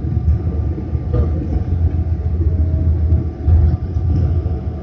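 Airliner landing on the runway: a loud, steady low rumble of engines and wheels, with faint steady tones above it.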